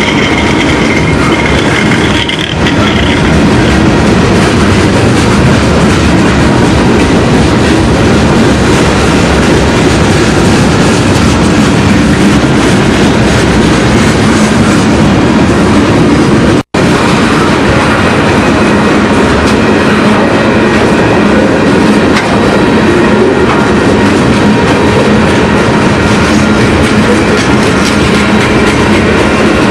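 Train running on the rails, loud and steady, with a momentary dropout about two-thirds of the way through.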